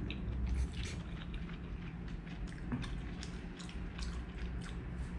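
A person chewing a mouthful of fried noodles close to the microphone: a run of short wet mouth clicks, a few a second.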